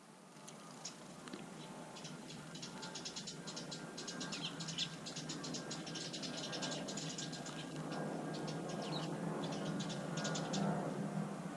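Small birds giving rapid series of short, high chirps, in dense bursts through most of the stretch, over a low steady hum that slowly grows louder.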